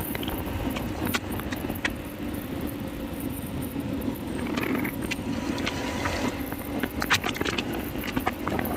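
Steady road noise from a motorcycle on the move: engine hum and wind, with scattered short clicks and rattles that grow more frequent near the end.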